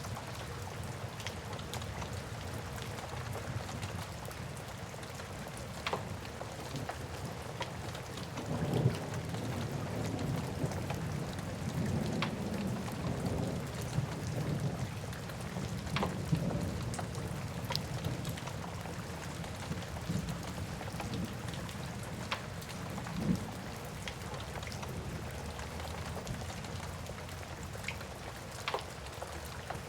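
Steady rain with a wood fire crackling, occasional sharp pops from the fire. A low rumble swells about nine seconds in and fades over several seconds.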